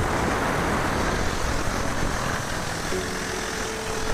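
Steam cleaner jet hissing steadily while it sprays a Citroën C3's engine bay.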